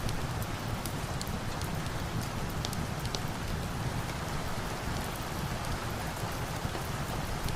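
Steady rain falling, with a low, even rumble, and scattered sharp crackles and pops of a wood fire a few times a second.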